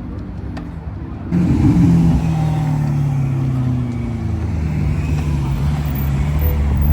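A car engine runs at a low steady idle, then about a second in a much louder car engine takes over, its pitch easing slowly down as it settles.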